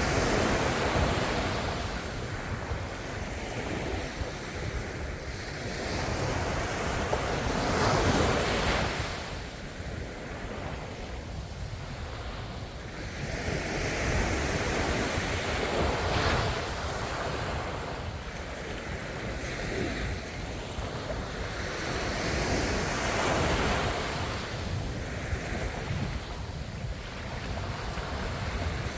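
Ocean waves breaking and washing on the shore, swelling and easing every few seconds, with wind on the microphone.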